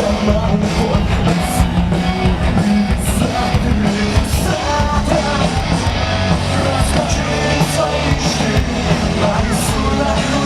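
Live rock band playing loud and steady: electric guitar, bass and drums with repeated cymbal hits.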